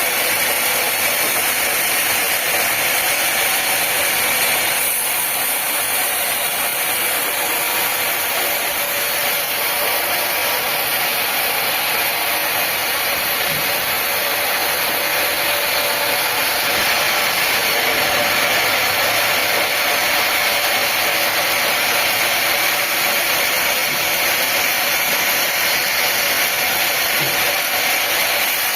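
Sawmill machinery cutting wood, running as one continuous, steady noise without pauses.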